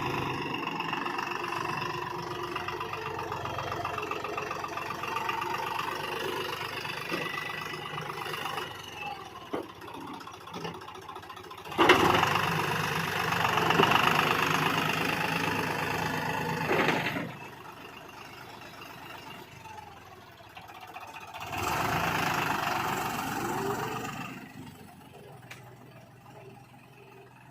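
Same Deutz Fahr Agromaxx 4050 E tractor's three-cylinder diesel engine running. It is loud for the first third or so, starts up loudest quite suddenly in the middle, and comes up again briefly near the end, running quieter in between.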